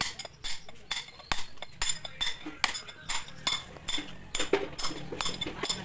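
Repeated sharp metallic clinks and taps, irregular, about three or four a second, each ringing briefly.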